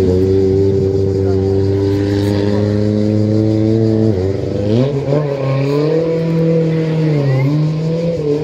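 Car engine running at steady high revs. About four seconds in the note dips briefly, then climbs to a higher pitch and rises and falls with the revs.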